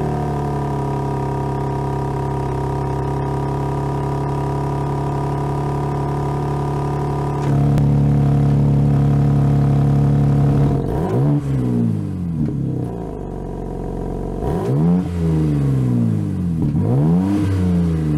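BMW M3 Competition's twin-turbo inline-six, with Hamann tuning, idling steadily just after starting. Its idle steps up and gets louder about halfway through, then the engine is blipped several times, revs rising and falling quickly through the exhaust.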